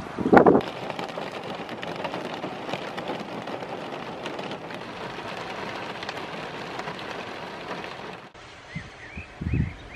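Heavy rain falling steadily, with scattered sharp drop impacts, after a loud low thump just after the start; the rain cuts off suddenly about eight seconds in, leaving a few faint low thumps near the end.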